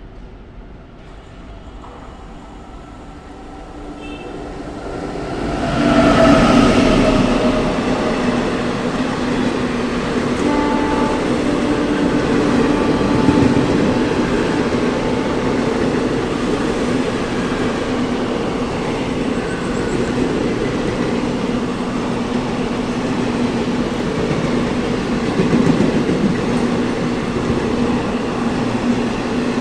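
WAG-9HC electric locomotive hauling a passenger train past, growing louder over the first six seconds. A falling tone sounds as the locomotive goes by, then comes the steady rumble of the coaches running past.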